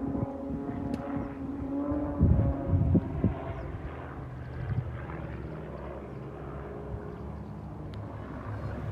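Propeller airplane engine running overhead, a steady pitched note for about two seconds that then gives way to a broad, even rumble. Wind gusts hit the microphone about two to three seconds in.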